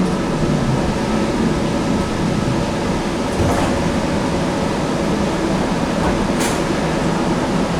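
Steady running hum and rumble inside a Link light rail car, with two brief sharp sounds about three and a half and six and a half seconds in.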